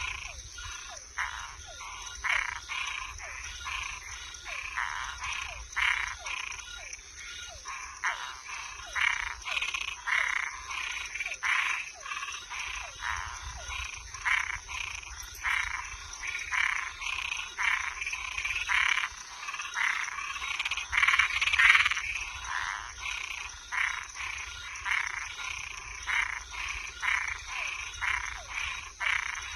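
A night chorus of frogs and tree frogs: many short calls repeated several times a second and overlapping, over a steady high-pitched trill.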